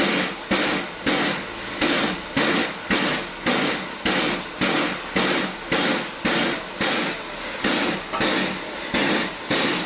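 GWR 5521, a two-cylinder Great Western prairie tank steam locomotive, working a train: its exhaust chuffs come evenly, a little under two beats a second.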